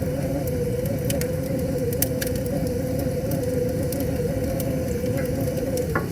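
Wood fire crackling with a few sharp pops over a steady rushing of river water, with a constant, slightly wavering hum underneath.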